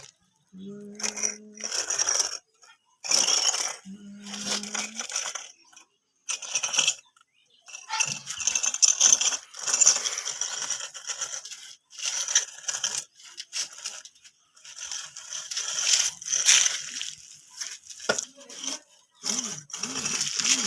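A series of short scraping and rattling bursts, each cut off abruptly by silence, with a steady low motor hum twice in the first five seconds.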